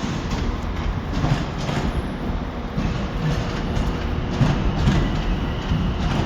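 A train running with a steady low rumble and scattered short knocks.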